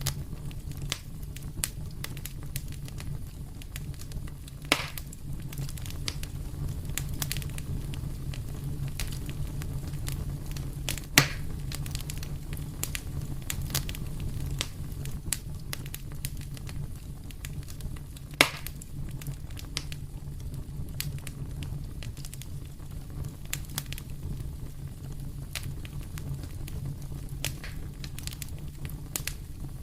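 Wood fire burning in a fireplace with a steady low rumble and constant small crackles, and three louder pops about 5, 11 and 18 seconds in, the loudest near the middle.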